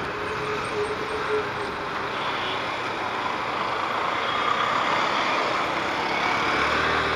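Steady road noise from a moving Yamaha FZS V3 motorcycle in city traffic: a steady rush with the engine running under it and other vehicles around.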